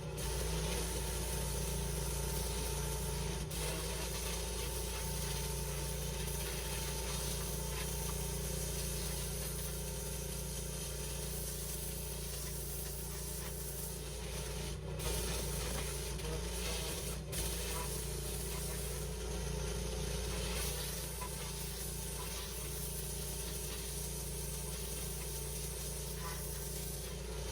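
A 3950 psi pressure washer running steadily, its high-pressure water jet hissing against the patio as it blasts the old pointing and dirt out of the joints.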